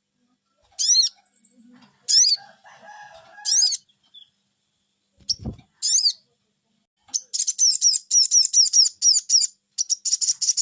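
Sogok bird song: a few sharp, high chirps that each sweep downward, then from about seven seconds in a fast, even run of repeated chirps. A single dull thump comes in just before the middle.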